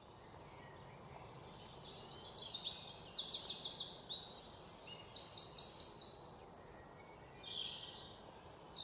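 Wild birds chirping over a soft steady hiss of outdoor ambience. Their calls come as quick runs of high, repeated notes, thickest in the middle of the stretch and thinning out near the end.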